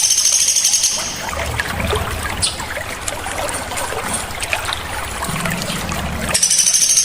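Songbird song from a bird-training recording: a loud, high, rapidly pulsing trill about a second and a half long at the start, and again near the end, with a busy background of short high chips in between that sounds like trickling water.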